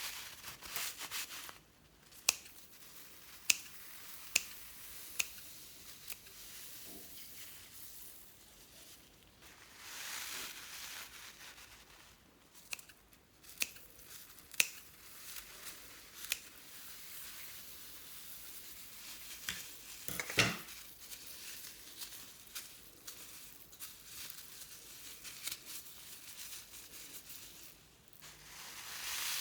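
Slime being mixed and worked by hand: sticky crackling with sharp clicking pops scattered through.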